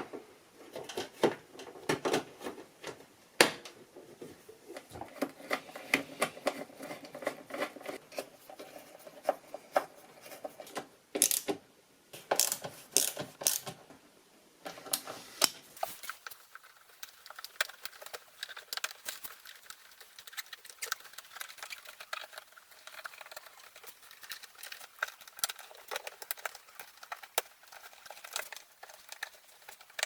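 Irregular small clicks, taps and knocks of plastic and metal parts being handled and fitted during reassembly of a front-loading washing machine, with a cluster of louder clicks about eleven to fourteen seconds in.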